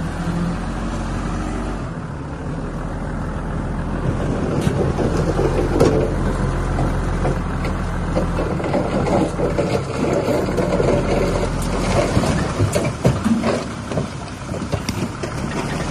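The diesel engine of a heavy earthmoving machine runs steadily. From about four seconds in, frequent metallic clanks and rattles join it.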